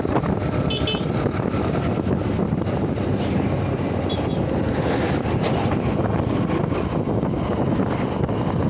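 Steady wind rush on the microphone mixed with road and engine noise from a Honda Shine SP 125 motorcycle on the move. There is a brief high chirp just under a second in.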